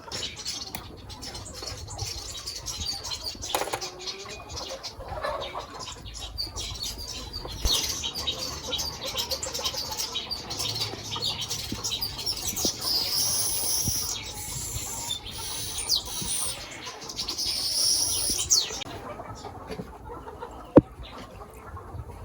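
Chickens and other birds in a farmyard, with dense high chirping that is busiest in the middle, and scattered sharp clicks. One sharp knock comes near the end.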